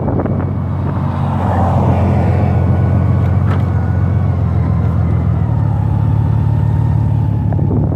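Honda motorcycle engine running steadily, a loud, even low drone.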